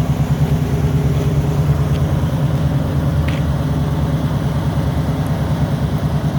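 1973 Ford Bronco's 302 V8 idling steadily, with an even, rhythmic low exhaust pulse.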